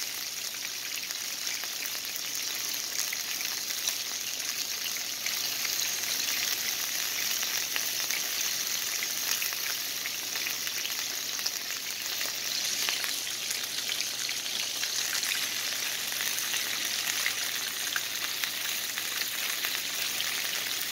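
Pork chops frying in oil in a nonstick pan: a steady sizzling hiss with many small crackles and pops.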